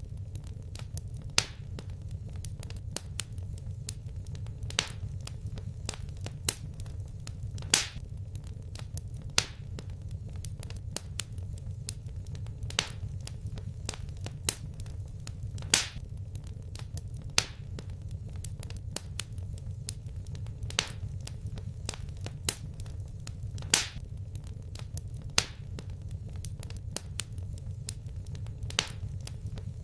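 Wood fire crackling in a fireplace: irregular sharp pops and snaps, a loud one every second or two with smaller crackles between, over a steady low rumble.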